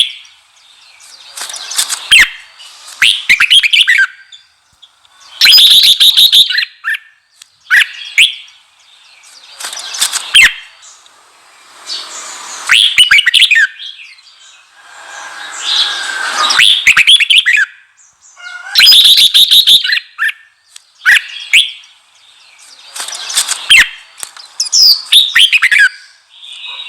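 Red-whiskered bulbul singing loud, short chirping phrases, one every two to three seconds with brief pauses between.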